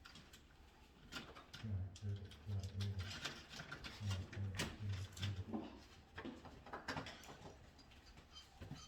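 Scattered light clicks and knocks, typical of tools and small parts being handled during wiring work. A low, evenly pulsing hum runs from about two seconds in to just past five seconds.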